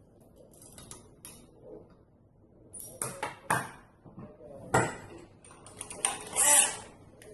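Small metal parts and tools clicking and clacking on a workbench during hand assembly of an RC car's wheelie bar: a few sharp clicks, then a longer rattling handling noise near the end.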